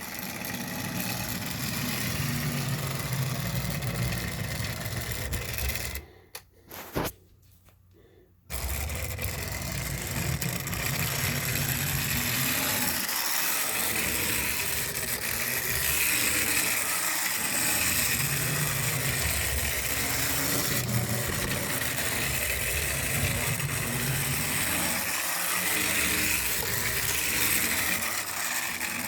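Switcher locomotive's engine running steadily with a low rumble, cut by a sudden gap of near silence about six seconds in that lasts some two seconds before the engine sound resumes.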